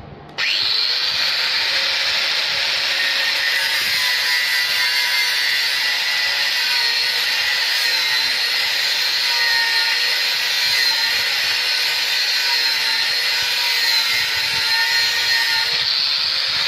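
Bosch GWS 6-100 4-inch angle grinder switched on about half a second in, spinning up to a steady high whine, with its abrasive cut-off disc cutting steel under a dense hiss.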